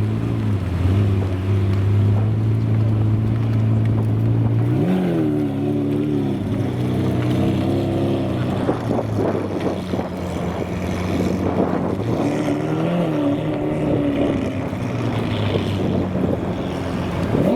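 Supercar engine running at low revs with a deep, steady note, swelling briefly in pitch about five seconds in and again about twelve seconds in.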